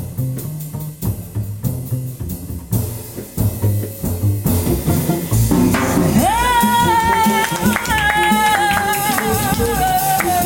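Small jazz band playing with double bass, guitar and drum kit in a Latin-tinged groove. About six seconds in, a long high melody note swoops up and is held with a slight waver, then steps down to further held notes over the band.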